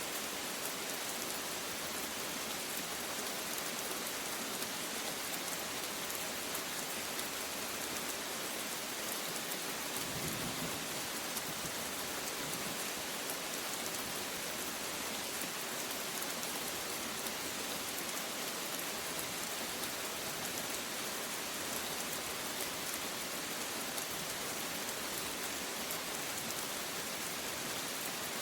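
Steady rain falling on a surface: an even hiss of many drops, with single drops ticking through it and no change in strength.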